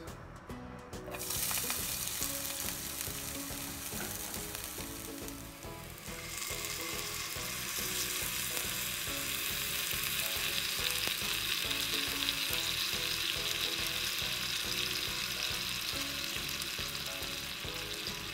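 Hot oil in a wok sizzling as food goes in about a second in, then a louder, brighter sizzle from about six seconds as the sauce for the yee mee is poured over the fried noodles and stirred with a spatula.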